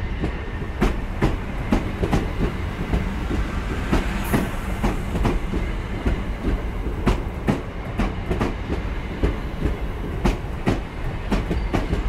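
Great Western Railway Class 166 diesel multiple unit passing slowly alongside the platform: a steady low rumble with wheels clicking over rail joints about twice a second. A brief high squeal comes about four seconds in.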